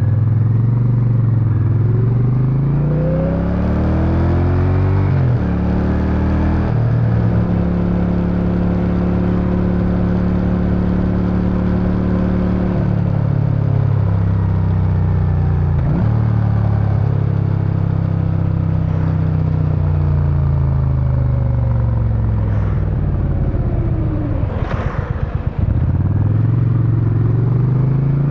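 Suzuki Intruder VS800's V-twin engine heard through its exhaust, pulling up through the gears with the pitch rising and dropping at shifts about five and seven seconds in, then running steadily at cruising speed. Toward the end it eases off with the pitch falling and a short rattly burble on the overrun, then picks up again.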